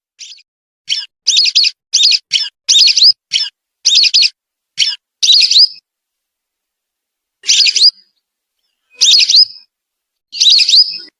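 Whistling duck (belibis) calls: a quick run of about ten short, high whistled notes, then after a pause three longer calls about a second and a half apart.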